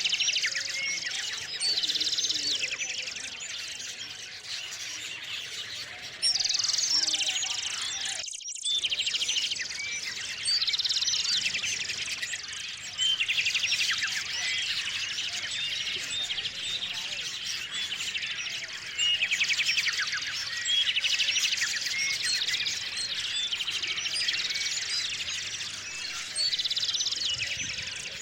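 Small songbirds at a feeder: one bird sings a rapid trilling song phrase every two to four seconds, over scattered short chirps from others.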